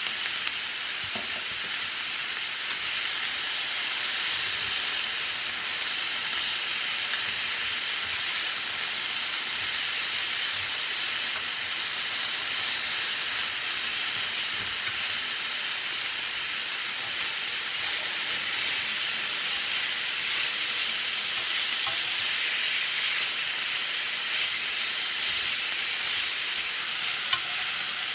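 Snap peas, carrots, bell pepper and onion sizzling steadily in a hot stainless steel skillet, with a few light clicks from the stirring and tossing.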